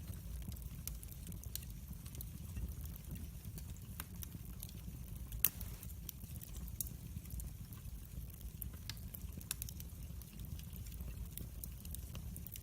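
Fire in a fireplace crackling: scattered sharp pops over a low, steady rumble, with one louder pop about five and a half seconds in.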